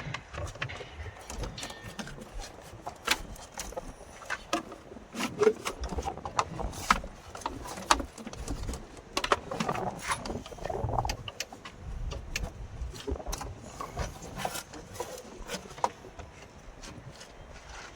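Irregular clicks, taps and light metallic clatter of hand tools and parts being handled while a truck's AC blower motor is fitted.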